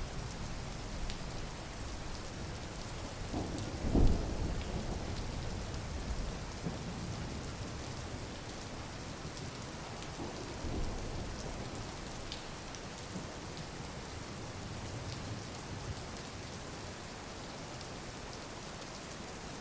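Steady rain falling. About four seconds in comes a short, loud, low thump.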